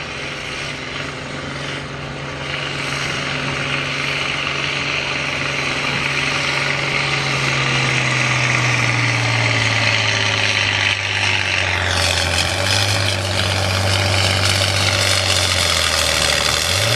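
Pulling vehicle's engine at full throttle on a tractor-pull run, getting louder, its revs slowly sagging as the sled load builds. About twelve seconds in the noise grows harsher, and near the end the revs shoot back up.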